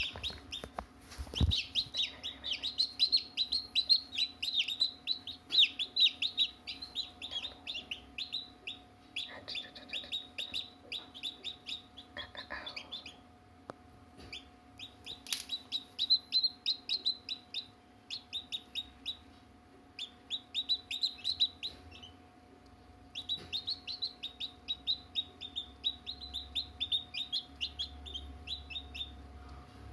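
Chicks peeping rapidly in long runs of short, high calls, broken by a few brief pauses, over a steady low hum.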